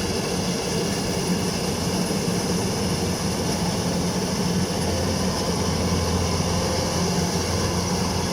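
Yanmar DC105X combine harvester's diesel engine running steadily while it cuts rice in a flooded paddy, a deeper hum coming up about five seconds in.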